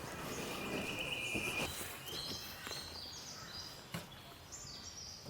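Birds calling in rainforest: a held high note for about the first second and a half, then a run of high notes stepping down in pitch, repeated, over faint background noise. A single sharp click about four seconds in.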